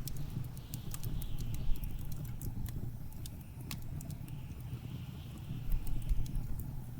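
Wood fire crackling in a fireplace with many sharp irregular pops, the loudest just under two seconds in, over a steady low rumble of blizzard wind with a faint whistle that rises and falls.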